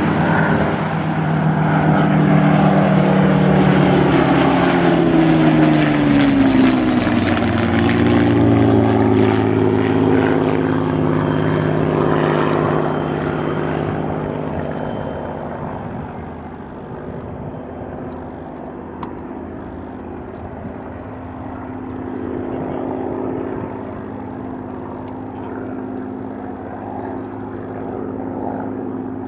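Propeller aircraft's piston engine passing low and loud, its pitch sliding down as it goes by, then fading away with a steady engine hum left in the distance.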